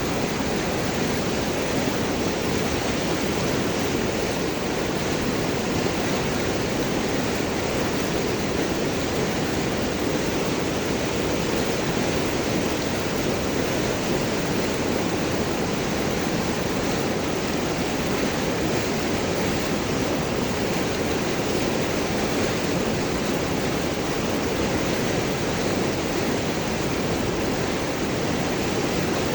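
River water flowing and gurgling over and around large rocks: a steady, even rushing.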